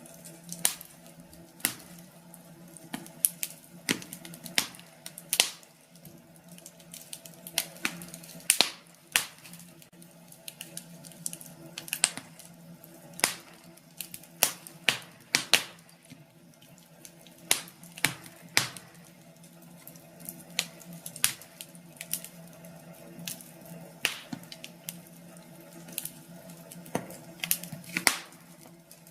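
Wood fire in a fireplace crackling, with irregular sharp pops and snaps over a faint steady hum.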